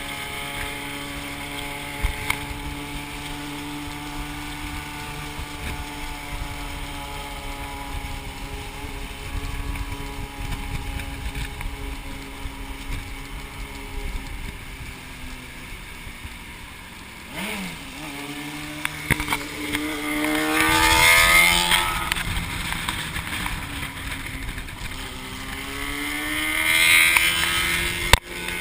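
Yamaha XT660's single-cylinder engine running under way, holding a steady pitch for a long stretch. The pitch drops briefly a little past halfway, then rises twice as the bike accelerates, with a rush of wind at the peaks.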